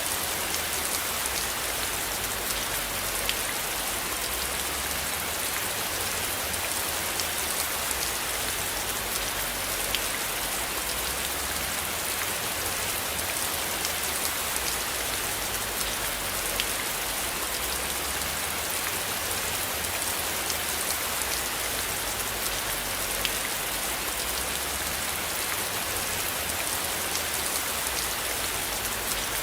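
Steady rain with individual drops ticking on a surface, an even hiss throughout, and a low rumble underneath that swells and fades every few seconds.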